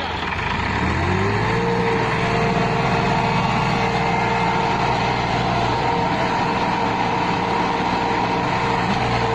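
Massey Ferguson MF 260 tractor engine revving up over the first second or so, then held at steady high revs.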